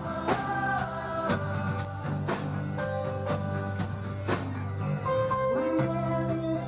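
Live band music with no lyrics sung: pitched instruments, likely including guitar, play sustained notes over a steady beat of drum hits about twice a second.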